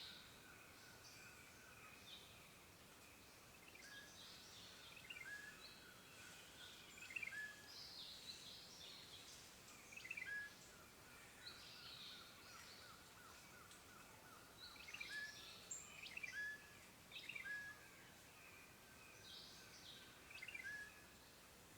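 Faint birdsong: several birds giving short chirps and whistled notes every second or two, over a soft steady hiss.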